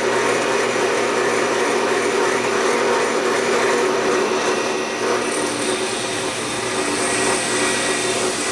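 Drill press motor running steadily as its bit drills a hole through 1/8 inch aluminum diamond plate, with a high, hissing cutting sound added from about five seconds in.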